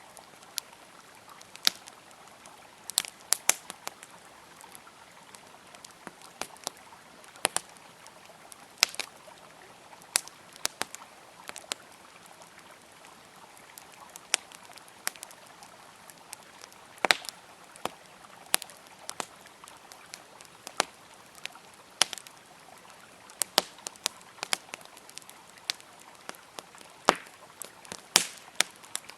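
Campfire crackling with irregular sharp pops over the steady rush of a flowing river.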